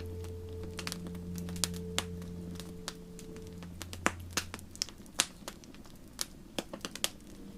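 Wood fire crackling, with sharp irregular pops scattered throughout. Soft sustained low music tones sound underneath and fade out about halfway through.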